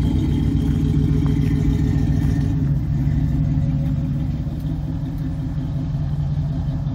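A 1966 Pontiac Catalina station wagon's engine and exhaust running as the car drives slowly away across grass, a steady low rumble that grows a little quieter about two and a half seconds in.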